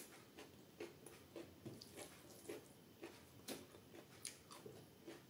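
Faint close-miked eating sounds: wet chewing and lip smacks from a mouthful of soft chana dal dubke and rice, in short clicks about two to three a second, joined in the second half by fingers squishing the dal into the rice.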